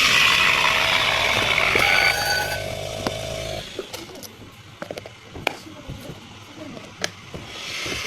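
A small machine running loudly for about two seconds, then winding down and stopping, followed by scattered clicks and knocks of cups and utensils.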